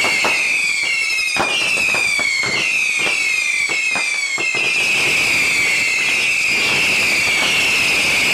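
Fireworks going off: overlapping whistling fireworks, each a falling whistle, in quick succession, mixed with sharp firecracker cracks. The cracks mostly stop about four and a half seconds in while the whistling carries on.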